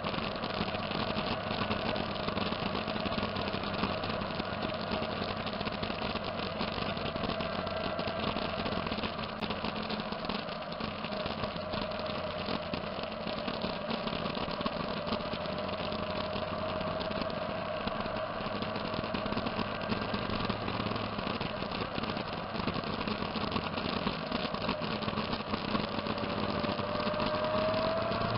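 Motorcycle engines running steadily at low speed, with one engine's pitch rising gradually near the end.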